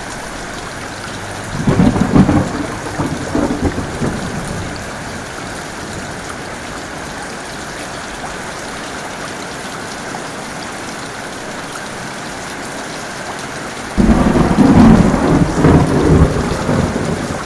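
Heavy rain falling steadily, with two peals of thunder. The first rumbles in about a second and a half in and fades over a couple of seconds. The second cracks in suddenly near the end and keeps rumbling.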